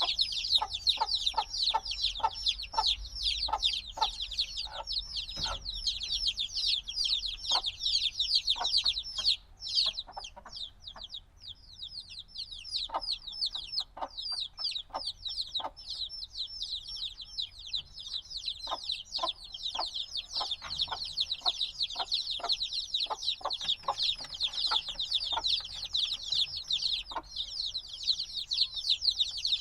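A brood of chicks only a few days old peeping continuously: many high, downward-sliding chirps overlapping, thinning out briefly about ten seconds in. Scattered short clicks sound beneath the chirping.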